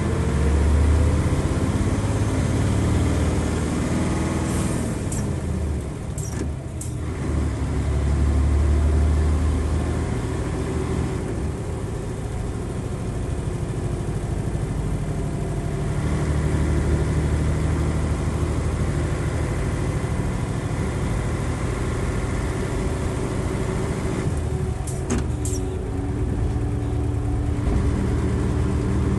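Nissan Diesel FE92TA turbocharged diesel engine of a bus running hard at high revs, its pitch rising near the start. The sound dips briefly about six seconds in, and a few sharp clicks come there and again near the end.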